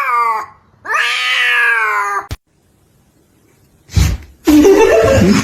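A cat yowling: two long drawn-out meows, each over a second long and falling slightly in pitch. Then a short silence, a thump about four seconds in, and a loud jumble of noise near the end.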